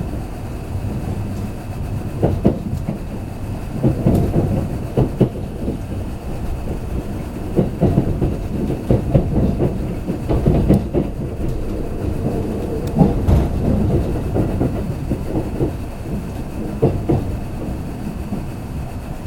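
Kintetsu limited express train running, heard from inside the passenger car: a steady low rumble with irregular clacks of the wheels over rail joints.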